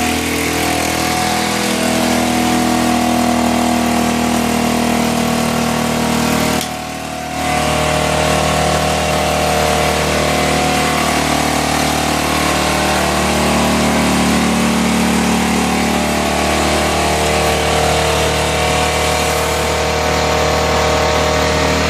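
Baotian Tanco 50cc four-stroke scooter engine running steadily, with a brief dip in level about seven seconds in.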